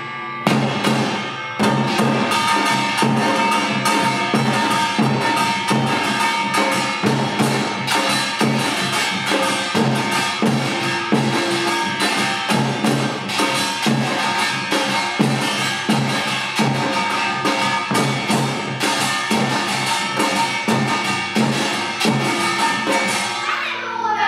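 Yeongnam samul nori: the Korean percussion quartet of kkwaenggwari small gong, jing large gong, janggu hourglass drum and buk barrel drum, playing a fast, dense rhythm under ringing gong tones. Near the end the drumming stops and only the gongs keep ringing, wavering in pitch.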